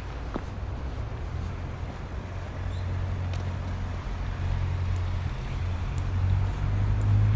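Low rumble of motor traffic on a nearby road, growing louder toward the end.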